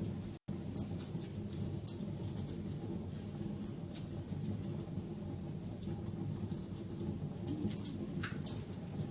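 Wood fire crackling: irregular sharp pops and snaps over a steady low rush. The sound cuts out for an instant just under half a second in.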